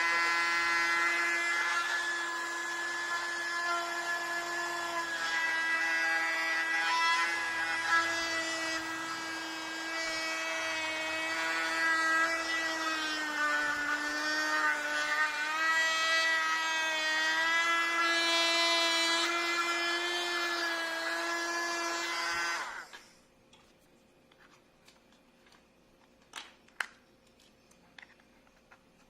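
Small electric motor of a cheap USB mini vacuum cleaner running with a high whine whose pitch wavers and dips slightly, then switched off abruptly about 23 seconds in, followed by a few faint clicks.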